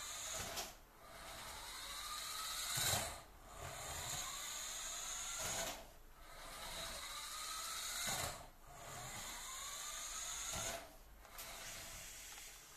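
Small electric motor and gears of a 1:16 PXtoys S727 RC car whirring. The pitch rises as it speeds up, then the sound cuts out briefly, and this repeats about every two and a half seconds, about five times.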